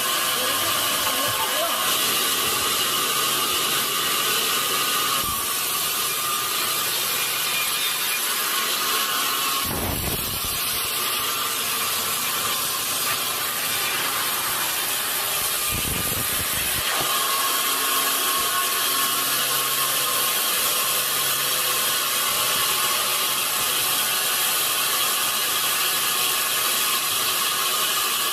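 Sawmill saw cutting through a log: a steady high-pitched noise, with two low thuds about ten and sixteen seconds in.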